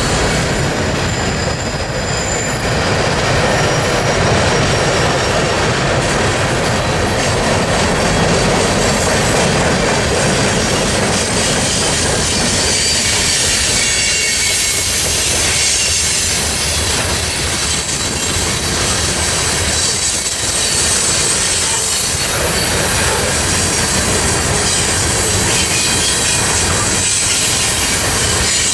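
Freight train cars rolling past, a steady loud noise of wheels on rail with faint high-pitched wheel squeal in the second half.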